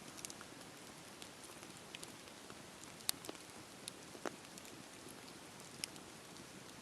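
Campfire crackling: a steady soft hiss of burning wood with scattered sharp pops, the loudest about three seconds in.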